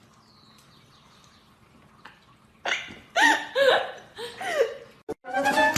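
A pet's short, high-pitched calls: about five in quick succession, each rising and falling in pitch, starting after a quiet first couple of seconds.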